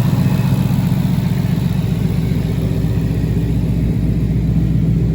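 2012 Ford Mustang GT's 5.0-litre V8 idling steadily.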